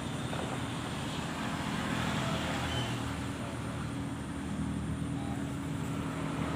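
An engine running steadily: a continuous low hum with a few held pitches, holding level throughout.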